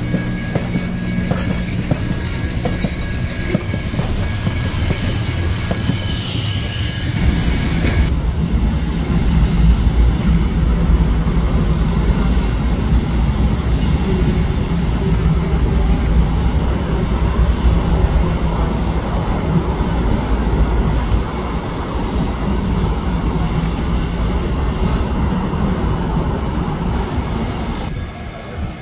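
Trains moving on the rails: wheels squealing and clattering over rail joints. For the first eight seconds this is the Polson Logging Co. #2 steam train rolling slowly past with its cars. After a sudden change, a heavy deep rumble takes over, in a shot that shows BNSF diesel locomotives.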